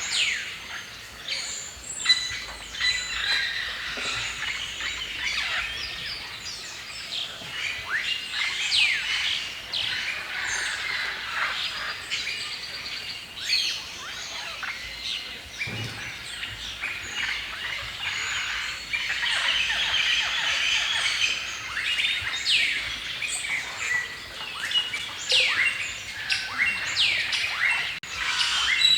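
Many songbirds singing and chirping at once in a forest dawn-chorus-like ambience: a dense, continuous mix of short chirps, trills and quick descending whistles.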